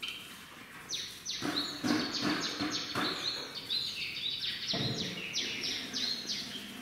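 Small cage birds chirping: a rapid, busy run of short, high chirps, each sliding down in pitch.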